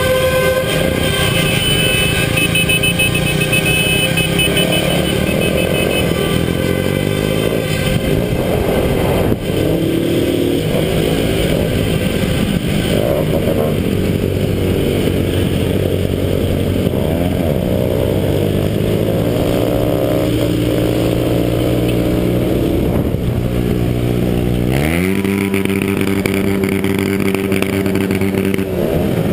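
Several motorcycle engines running together and revving, their pitches rising and falling. Near the end one engine revs up quickly and holds a high, steady note.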